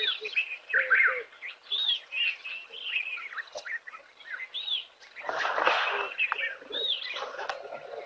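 Many wild birds chirping and whistling in short repeated notes. There is a second-long burst of rough noise about five seconds in, and a low steady hum comes in near the end.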